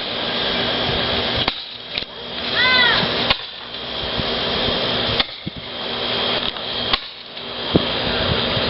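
Ground fountain fireworks spraying with a loud steady hiss that comes in surges of a second or two, broken by short lulls and a few sharp cracks. A brief high-pitched tone rises and falls about three seconds in.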